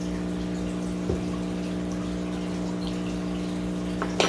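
Running water trickling over a steady electrical hum, typical of an aquarium filter or pump running. A light click about a second in and another sharp one near the end.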